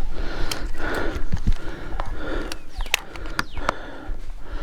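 A hiker breathing hard in repeated soft puffs, with footsteps and sharp crackles underfoot on a forest trail, and a low rumble of wind or handling on the microphone.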